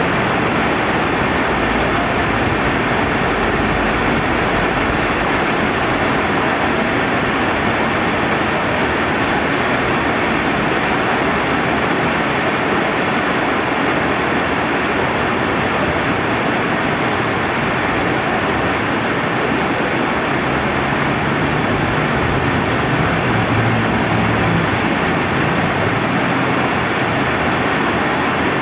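Steady heavy rain with river water flowing: a loud, even hiss that does not let up.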